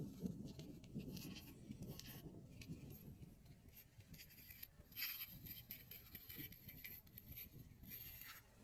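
Faint, steady rubbing and rustling of natural material close to the microphone, a fine crackling scratch.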